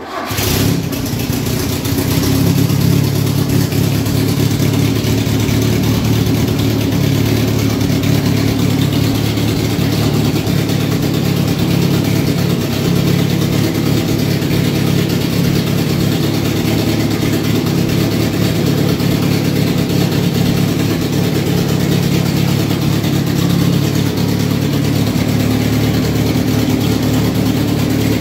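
Fiat 1.6 DOHC twin-cam four-cylinder engine on a test stand, starting right at the beginning and then running steadily. It is fired by an electronic ignition distributor converted from a Polonez unit, with the ignition timing only roughly set.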